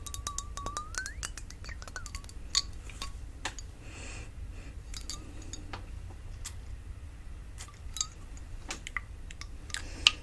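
Fingernails tapping and clicking on a glass perfume bottle: quick, irregular taps that are dense for the first couple of seconds, then sparser and spaced out.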